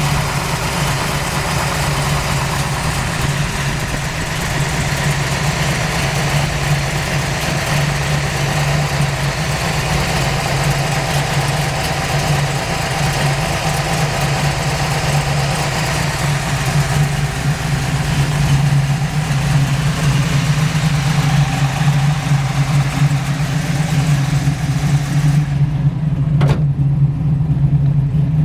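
1970 Dodge Challenger's 505 cubic-inch street wedge big-block V8 idling steadily. A single short click comes near the end.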